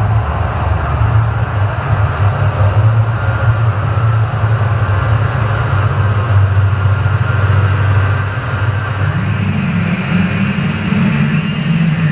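Ambient drone music from analog synthesizers: a sustained low drone with a grainy, hissing texture above it. A second, higher drone tone enters about nine seconds in.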